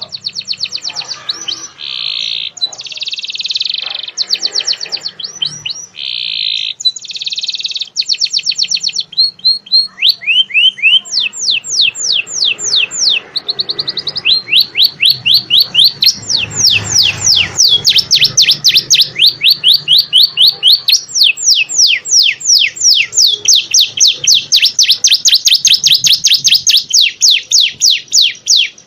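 A songbird singing a long song of rapid trills and repeated sweeping whistled notes. It is in short phrases at first, then turns into dense, continuous runs of fast notes from about ten seconds in.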